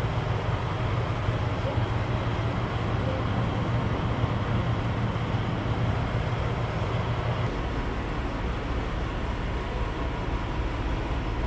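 Semi truck's diesel engine idling with a steady low rumble. About seven and a half seconds in, the hum drops to a lower pitch.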